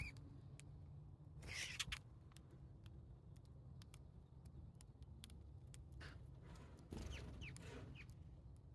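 Faint Eurasian tree sparrow activity: a few short chirps and bursts of rustling, over a low steady hum and scattered small clicks.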